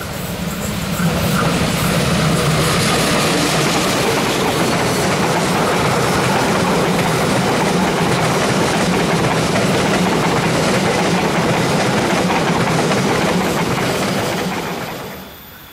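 Diesel-hauled passenger train passing close by: a steady loud rumble of the locomotive and coaches with wheels clattering over the rails. It swells in the first second and drops away sharply near the end.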